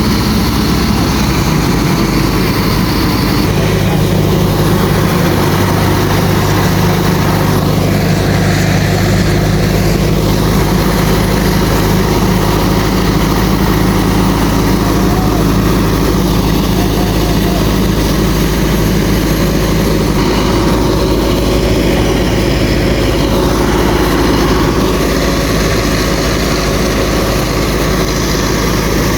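A heavy vehicle's engine running steadily, with its low tone shifting a few times as the engine note changes.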